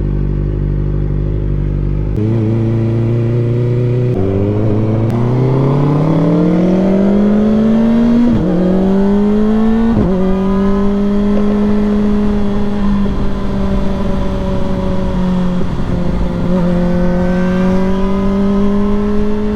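Kawasaki ZX-4RR's 399 cc inline-four pulling away, its pitch rising through the revs and dropping sharply at each quickshifter upshift, three in quick succession, then running at a steady cruise.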